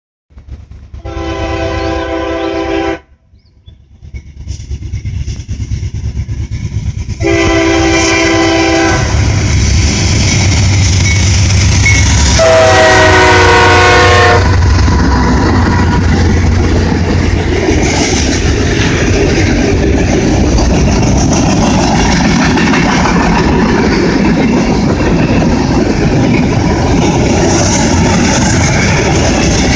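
CSX freight train's diesel locomotive air horn sounding three blasts as it approaches; the third, about 13 seconds in, drops slightly in pitch as the locomotive passes. Then comes a loud, steady heavy rolling of the locomotives and freight cars, with the wheels clicking over the rails.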